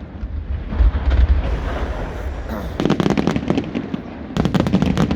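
Aerial fireworks display: a deep boom about a second in, then two runs of rapid crackling bangs, around three seconds in and again near the end.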